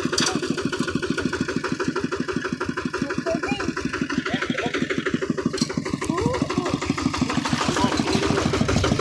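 Kubota hand tractor engine running steadily, with a rapid, even chugging that gets a little louder near the end.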